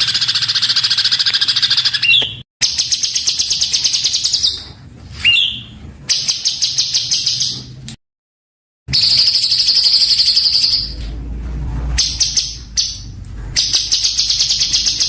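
Songbird singing fast, harsh bursts of rapidly repeated high notes, the dense rough 'tembakan' song used to train cage birds. The bursts are cut apart by abrupt silent gaps, and two short upward-sliding whistles come in between them.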